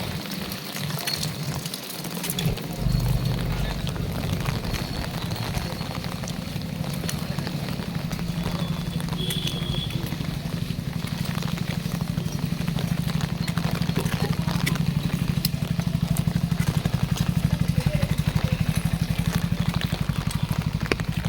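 Heavy rain falling, with an engine running at a steady low throb that gets louder toward the end.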